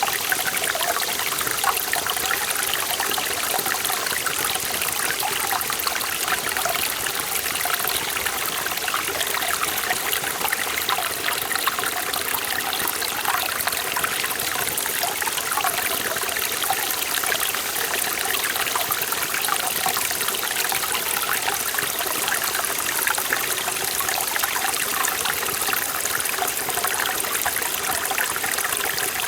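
Mountain valley stream flowing over rocks, a steady rushing and babbling of water with no change in level.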